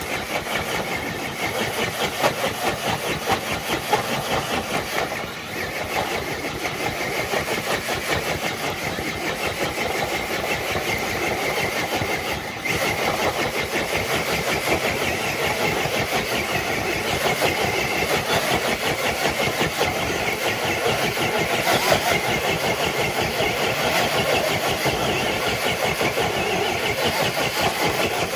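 Electric motor and gears of an RC scale truck running steadily under load as it drags a dead-weight pull sled.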